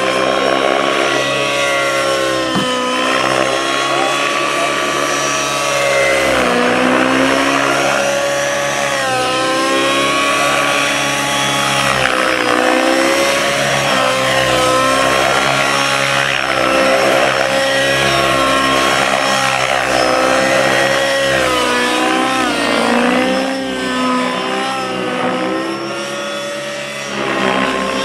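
Radio-controlled model helicopter flying, its engine and rotor whine rising and falling in pitch over and over as it manoeuvres.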